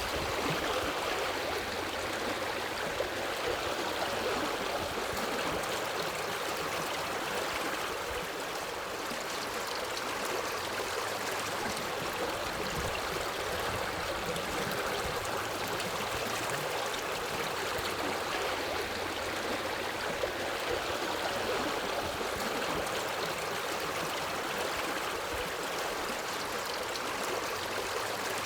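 Forest river running over rocks, a steady rushing and babbling of water.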